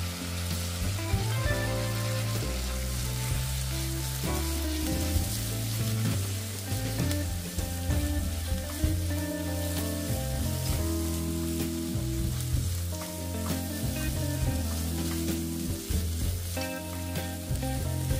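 Food sizzling as it fries in a hot pan, stirred with a utensil that gives scattered clicks against the pan, over background music.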